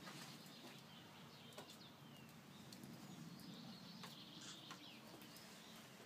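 Faint birdsong: short chirping calls, several gliding downward in pitch, over quiet outdoor ambience with a few soft clicks.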